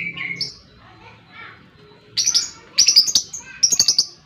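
Lovebird chirping: a call trails off at the start, and after a quieter second a rapid run of sharp, high-pitched chirps comes in quick clusters from about two seconds in.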